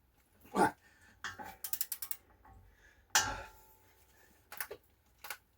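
Large ratcheting torque wrench working on a front hub nut being pulled up to 250 foot-pounds: a thump, a quick run of ratchet clicks, then a sharper knock about three seconds in, with a few small clicks near the end.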